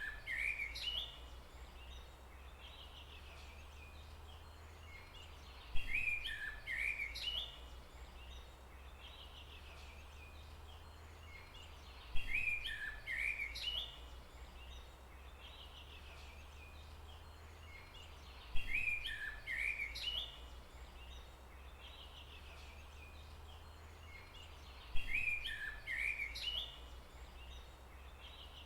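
A songbird's short chirping phrase of several quick notes, each phrase about two seconds long, repeating the same way every six or so seconds. A steady low rumble of forest ambience lies underneath.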